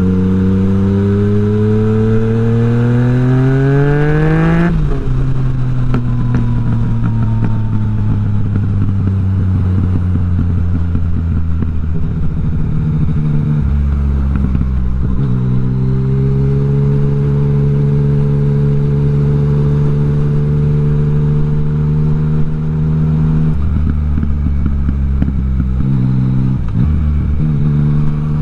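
Yamaha MT-09 three-cylinder motorcycle engine under way: it revs up through a gear for about four seconds, drops in pitch as it shifts up, then runs at fairly steady revs. It eases off around the middle, then picks up and holds steady again.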